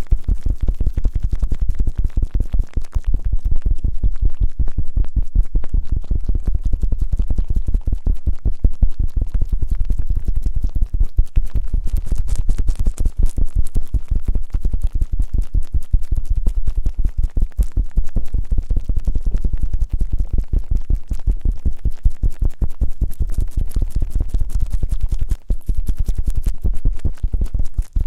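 Fast, rough rubbing and scratching strokes on a binaural microphone's ears, ASMR 'gorigori' style, several strokes a second in a steady rhythm with a deep, rumbling low end.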